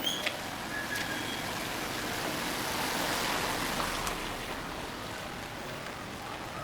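A car passing on a rain-wet street: its tyre hiss swells to a peak about three seconds in and then fades, over a steady hiss of rain. A few sharp ticks come near the start and again around four seconds in.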